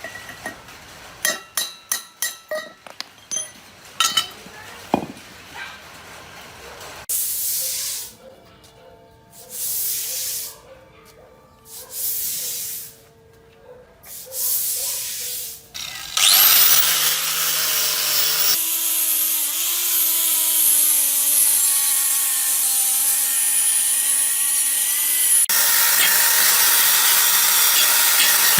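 Workshop tool work. A few sharp taps come first, then several separate hissing bursts. About halfway through, a power tool spins up with a rising whine and then runs steadily.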